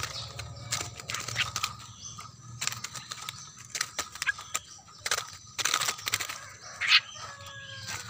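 Birds fluttering and scrabbling in a wire cage as they are let out, with irregular sharp clicks and rattles and a few short calls near the end.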